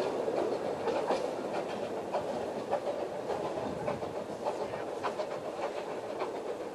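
Narrow-gauge train coaches running away over jointed track, a steady rumble with irregular clicks and knocks from the wheels over the rail joints, growing a little fainter.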